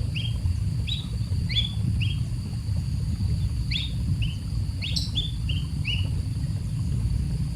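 Baby bird cheeping: short, rising chirps in quick runs of two to four, over a steady low rumble.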